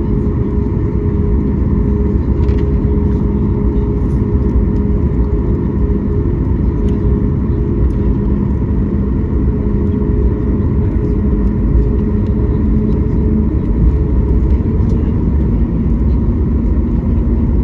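Steady low rumble and hum of a Boeing 737 MAX 8's CFM LEAP-1B engines at low, unchanging power, heard inside the passenger cabin, with a few faint light rattles.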